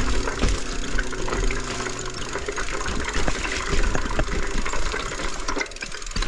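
Mountain bike riding over a rough, wet trail: a dense, irregular rattle of clicks and knocks from the bike's chain and frame and from the tyres hitting roots and rocks.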